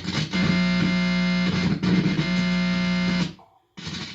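Amplified electrical interference picked up by a handheld pickup and played through a speaker: a steady, buzzy drone thick with overtones over a strong low hum. It cuts off suddenly about three seconds in and starts again after a short gap. The owner takes this 'ripply' sound for microwave attacks, the Frey effect.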